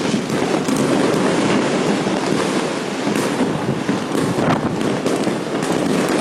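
Fireworks going off continuously in a dense barrage: a steady mass of crackling and bangs, with sharper individual cracks standing out now and then, notably around three seconds and four and a half seconds in.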